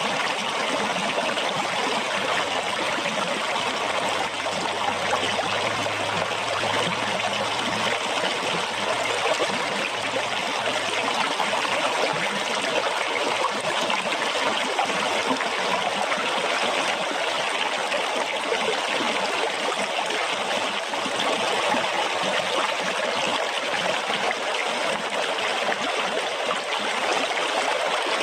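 Running water splashing and trickling steadily, without a break.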